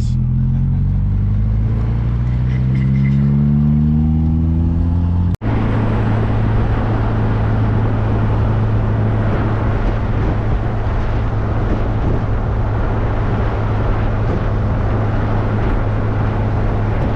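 Car engine accelerating, its pitch rising steadily for about five seconds. After a sudden break, it runs at a steady cruising drone under a broad wash of road noise.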